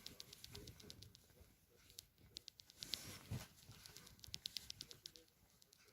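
Faint scrabbling of a kitten's claws and paws during play-fighting with a plush hand puppet: quick clusters of small clicks and scratches, with a soft thump a little over three seconds in.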